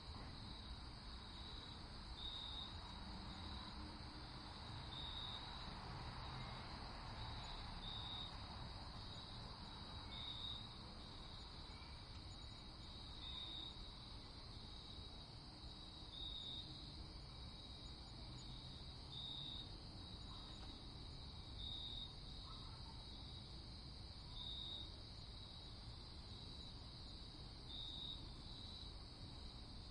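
Night ambience of crickets trilling steadily and high, brightening every couple of seconds, over a faint low rumble.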